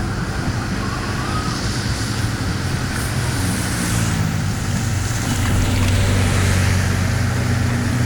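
Water rushing, with a steady low engine-like hum underneath that grows a little louder about five seconds in.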